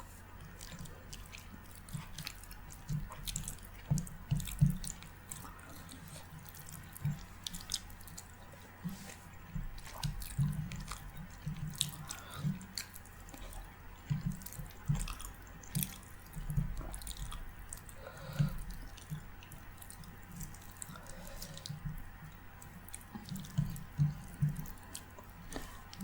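Close-miked wet chewing and mouth sounds while eating rice, lentils and curry: irregular smacks and clicks with soft low thumps.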